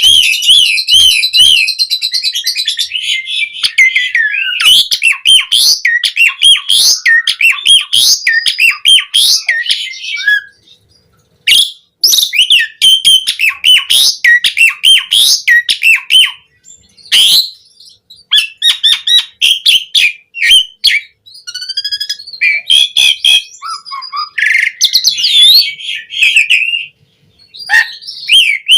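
Asian pied starling singing a loud, varied song of quick whistles, warbled phrases and sharp clicks, breaking off briefly a few times.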